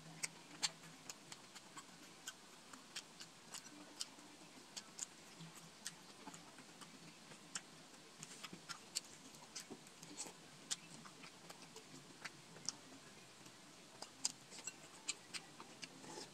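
Close-up mouth sounds of eating: chewing and lip smacking, heard as a string of faint, irregular wet clicks, a few a second.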